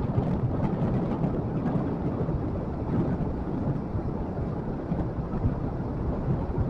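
Motorcycle running at a steady pace while riding, heard as a continuous low rumble mixed with wind buffeting the microphone.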